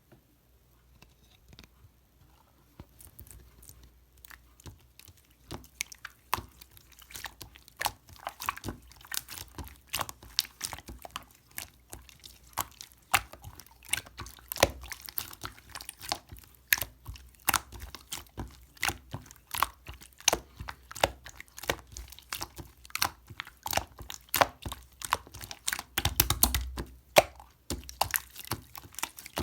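Purple clear slime being squeezed and pressed by hand, giving rapid, irregular sticky pops and clicks that start faint and get denser and louder after about three seconds.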